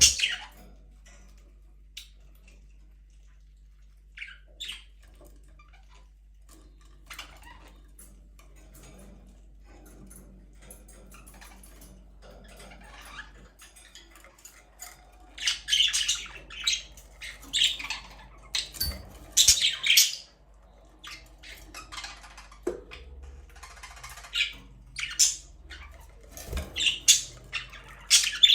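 Budgerigars chirping and squawking with short, high calls. The calls are sparse at first and grow busier and louder about halfway through.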